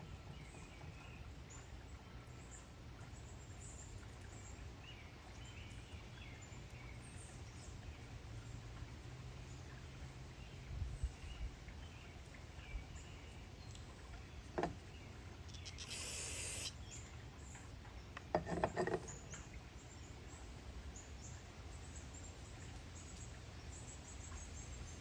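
Small chainsaw carburetor parts being cleaned and handled: a few light clicks and taps, and one hiss of about a second, roughly two-thirds of the way in, over a steady low hum.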